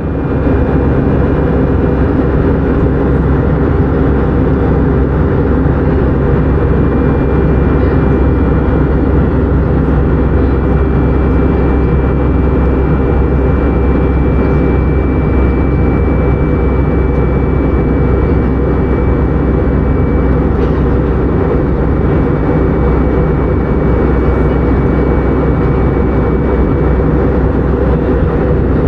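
Airbus A319-100 jet airliner noise: a steady, unbroken drone of engines and airflow with a faint high whine.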